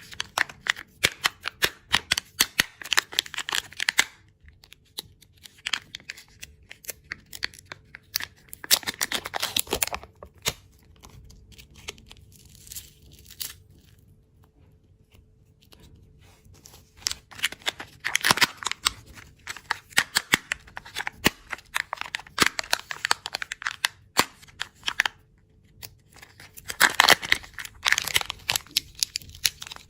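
Candy packaging being handled, crinkled and torn, in bursts of dense crackling with quieter pauses between.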